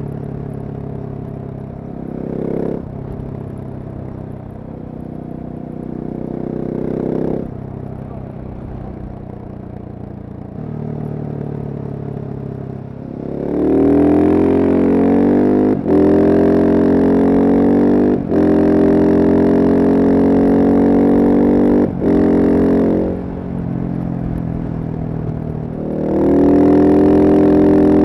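Single-cylinder Husqvarna supermoto engine under way. It runs at moderate revs for the first half, then accelerates hard about halfway through, with three short drops in sound as the rider shifts up through the gears. It eases off, then accelerates again near the end.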